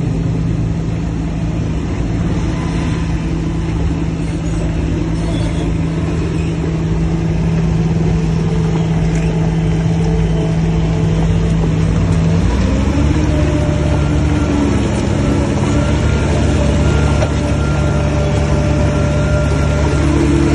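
Heavy earthmoving machine's diesel engine running steadily under load. About halfway through, its note shifts and a higher tone comes in.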